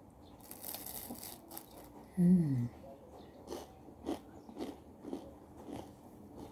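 A person biting into a crisp cracker spread with peanut butter and chewing it, the crunches coming about twice a second. A little over two seconds in, a short hummed "mm" falling in pitch.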